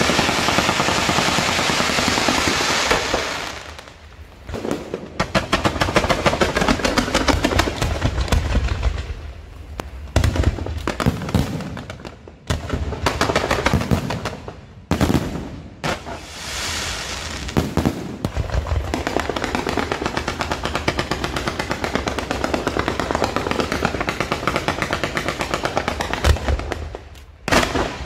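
Ground-mounted pillar fireworks going off: a hissing spray of sparks at first, then long rapid strings of crackling pops and bangs, broken by a few brief lulls.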